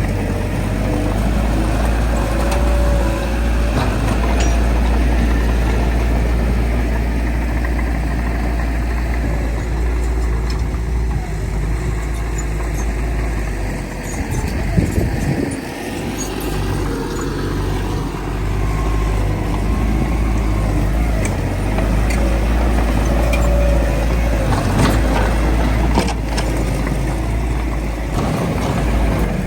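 Heavy diesel earth-moving machinery running steadily with a deep low rumble, dipping briefly about halfway through, with a few sharp knocks.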